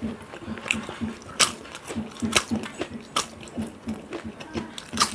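Close-miked chewing of food in a steady rhythm, with a sharp wet click about once a second.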